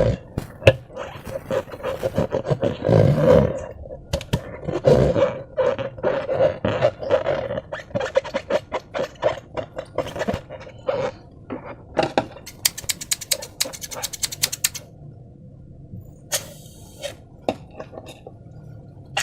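Sticky slime being squeezed and pulled by hand, giving a dense run of wet squelches and clicks, with a quick string of sharp clicks partway through before it grows sparser and quieter.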